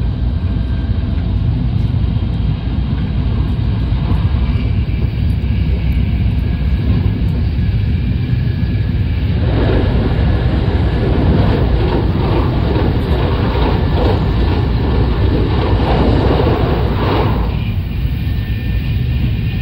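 Shinkansen bullet train running at speed, heard from inside the passenger cabin as a steady low rumble. From about ten seconds in, a louder, busier rushing joins for several seconds while the train crosses a steel truss bridge, then falls away again.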